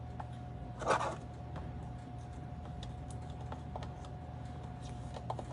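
Light clicks and taps of paper and small tools being handled on a craft table, with one short scraping rustle about a second in, over a faint steady hum.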